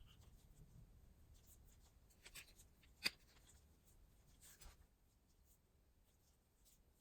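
Faint light scratching and small taps of handling on a workbench, with one sharp click about three seconds in.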